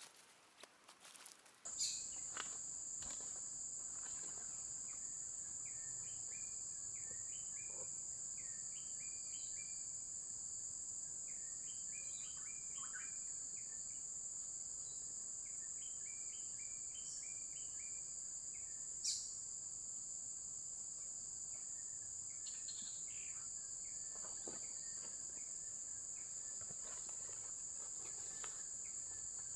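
A steady, high-pitched drone of insects such as crickets or cicadas begins about two seconds in, with runs of short chirps under it and a single sharp tick about two-thirds of the way through.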